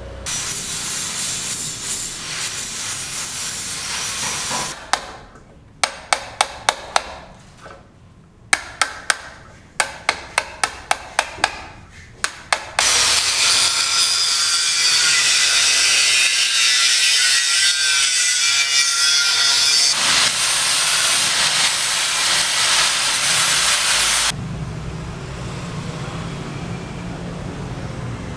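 Building work with tools: a run of sharp, quick knocks over about six seconds, then a loud steady power-tool cutting noise for about ten seconds, which stops abruptly and gives way to a lower hum.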